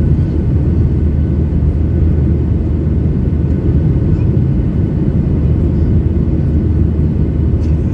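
Steady low roar of a Boeing 737-800 in flight, heard inside the passenger cabin: CFM56-7B engine noise and airflow, with a faint steady whine above the rumble.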